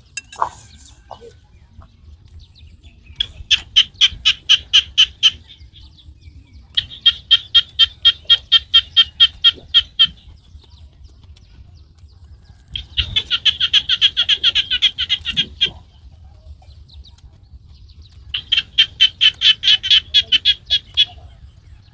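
A bird calling in four bouts of rapid, evenly repeated high chattering notes, each bout lasting two to three seconds, with short pauses between them.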